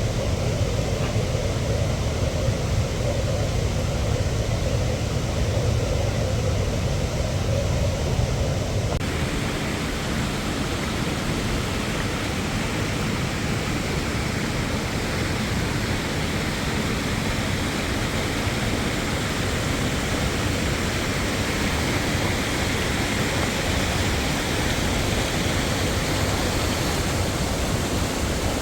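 Steady rushing roar of a waterfall. About nine seconds in, the sound changes abruptly from a deeper, low-heavy rumble to a brighter, even hiss of falling water.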